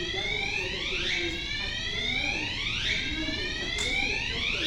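Electronic alarm sounding a repeating rising whoop, about once every two seconds. It is thought to be the warning alarm that signals a store panel saw is running, though with no one operating it.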